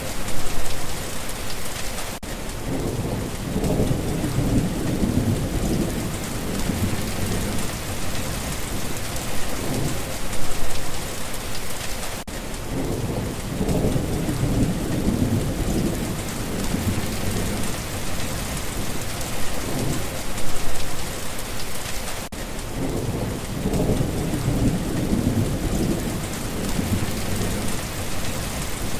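Steady rain falling, with low thunder rumbling three times, each rumble lasting several seconds.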